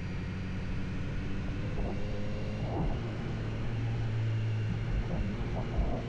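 Car engine running steadily, its note rising slightly for a couple of seconds and then settling, with a few light knocks.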